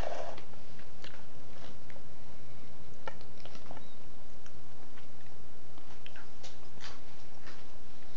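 A person chewing food close to the microphone, with scattered short clicks.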